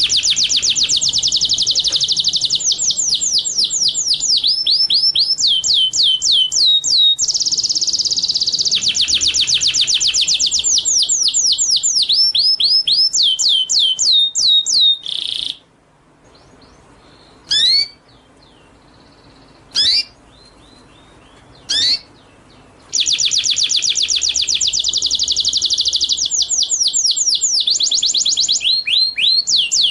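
Songbird singing in long, very fast trills of rapidly repeated sweeping notes. About halfway through the trilling stops for several seconds, broken only by three or four single call notes, then the fast trills resume.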